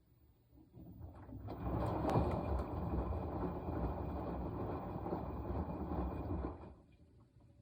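Washing machine running: the drum turns for about five seconds with a steady swishing noise, then stops and goes quiet.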